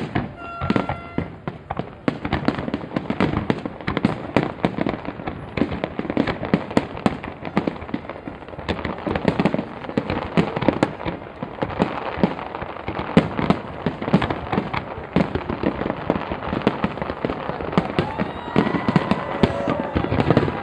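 Fireworks display going off in rapid, continuous volleys: many sharp bangs and crackles a second, overlapping without pause.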